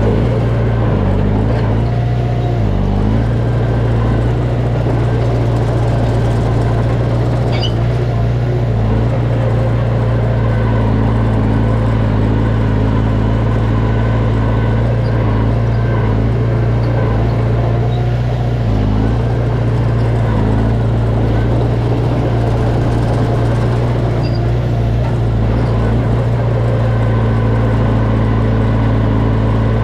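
Diesel engine of heavy earthmoving machinery running steadily at working speed, its pitch dipping briefly a couple of times as the load changes.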